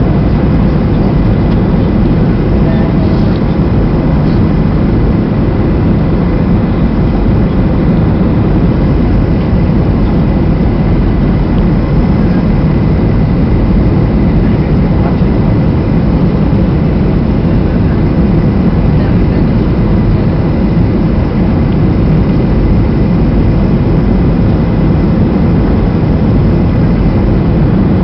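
Steady, loud cabin noise of a Boeing 737-800 in flight: a constant low roar of engines and airflow, with faint steady tones running through it, heard from inside the cabin.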